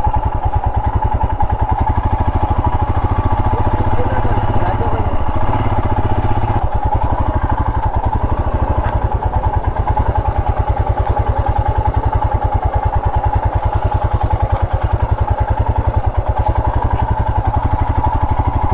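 Royal Enfield Himalayan's 411 cc single-cylinder engine running steadily at low speed as the motorcycle is ridden, its firing beats evenly spaced.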